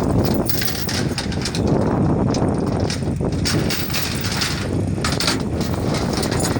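Flatbed tow truck's engine running steadily, with irregular metallic clinks and knocks of the tie-down hooks being fastened.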